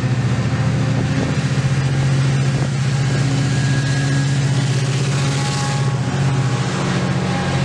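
MARC commuter train's diesel locomotive approaching and passing directly underneath, its engine a steady low drone, then the passenger coaches rolling by. A brief rise in hiss comes about five and a half seconds in.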